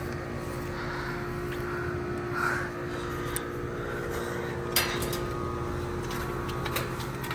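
Outdoor units of 5-ton Ruud heat pumps running in heat mode: a steady compressor and fan hum with a constant tone. A few short clicks stand out over it in the second half.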